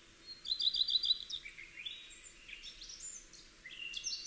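Small songbirds singing: a quick run of about five repeated chirps about half a second in, then a string of varied whistled notes, some sliding up and some down.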